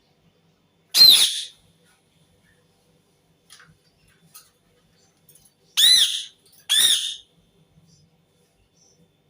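Indian ringneck parakeet giving three short, harsh screeching calls: one about a second in, then two close together near the end, each dipping in pitch.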